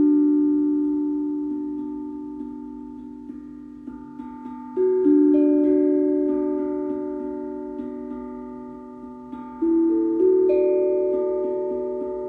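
Tuned metal percussion struck in three groups of one or two notes, at the start, about five seconds in and about ten seconds in, each note ringing on and fading slowly.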